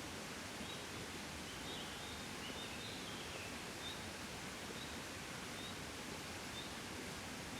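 Soft, steady breeze: an even wind hiss and rustle outdoors. Short high peeps come about once a second, with a brief run of chirps in the middle.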